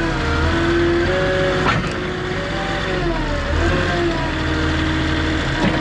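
Vehicle engine running and being revved, its pitch rising and falling, with a sharp knock about two seconds in and another near the end.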